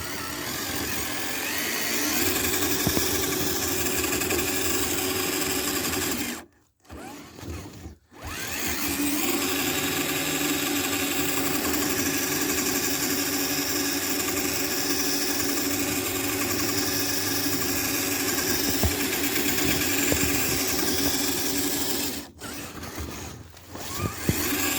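Electric motor and gear drivetrain of an RC scale crawler whining steadily under throttle as it pushes through snow. It cuts out twice briefly, once about a third of the way in and again near the end, when the throttle is let off.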